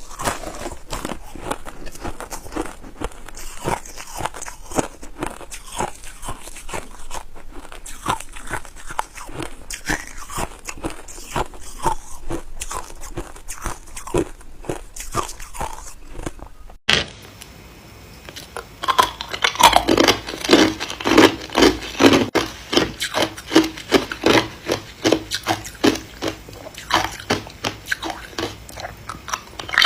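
Ice being bitten and chewed close to the microphone: crisp crunching and crackling. About 17 seconds in there is a sudden cut, and after a short lull the crunches come louder and more regular, two or three a second.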